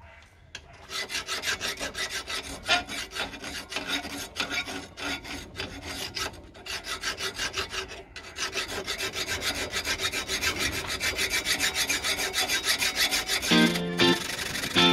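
Hand file rasping back and forth along a rough-forged steel knife blade held in a bench vise, in quick, even strokes with a couple of brief pauses, taking down the rough forged surfaces. Guitar music comes in near the end.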